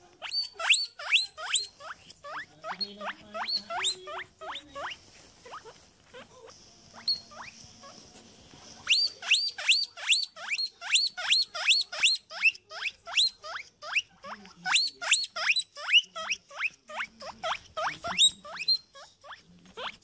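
Guinea pig wheeking: a long run of sharp, rising squeals, two to three a second, that thins out for a few seconds in the middle.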